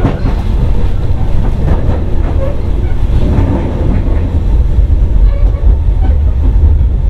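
Running sound of a Sotetsu old 7000 series electric train, heard from inside the passenger car: a loud, steady low rumble of the motors and wheels on the track while the train is under way.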